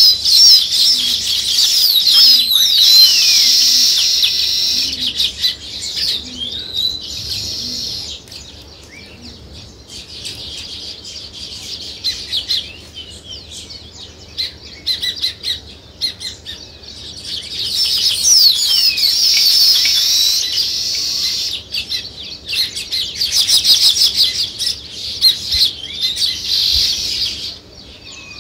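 A flock of small songbirds chirping and chattering in a busy, overlapping chorus of quick high chirps and trills. It is loudest over the first few seconds and again from about two-thirds of the way in, and thins to scattered chirps in between.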